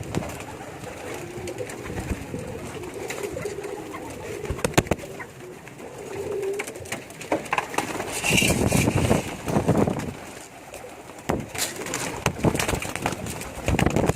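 Domestic pigeons cooing in low, wavering tones, with scattered clicks and louder rustling bursts in the second half.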